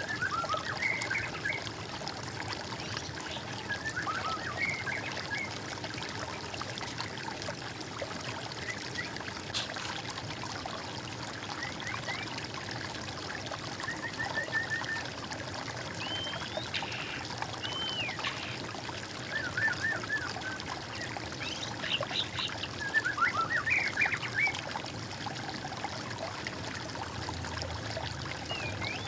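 Water trickling steadily, with birds singing in short, scattered chirps and whistled phrases over it, most of them a little past the middle.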